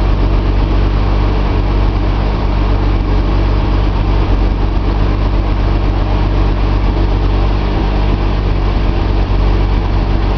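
Nissan L28 straight-six engine, fitted with a Maxima cylinder head, running steadily on an engine test stand with no change in speed.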